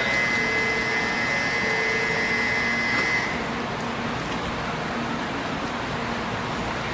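N700 series Shinkansen pulling out of the station: a steady rushing whoosh, with a steady high electronic tone that cuts off about three seconds in.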